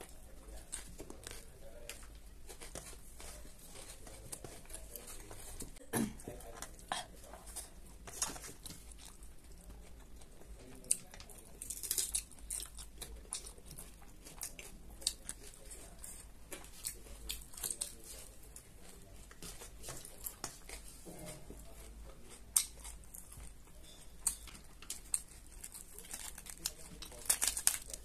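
Close-up crunchy chewing of raw cabbage singju salad, mixed with hand-tearing of crisp raw cabbage leaves: many short, irregular crackles and snaps.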